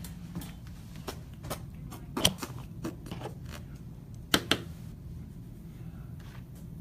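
Scattered light clicks and knocks of cards and packaging being handled on a table, over a steady low hum. The loudest knock comes a little past two seconds in, then two sharp ones in quick succession about four and a half seconds in.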